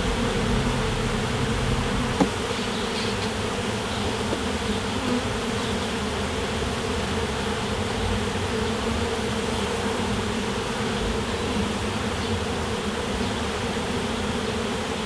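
Honey bees from an opened hive buzzing in a steady, even drone, with one short click about two seconds in.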